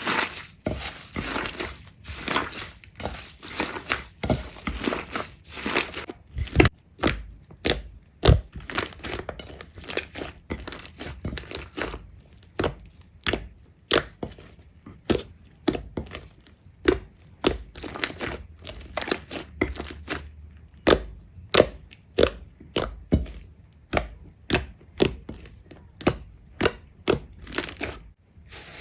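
Slime being squeezed and pressed by hand, making a dense crackle for the first several seconds and then a string of separate sharp pops and crunches, about one or two a second.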